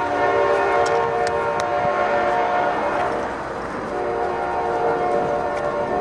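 Freight diesel locomotive's multi-chime air horn sounding: one long blast of about three seconds, then after a short break a second blast that carries on.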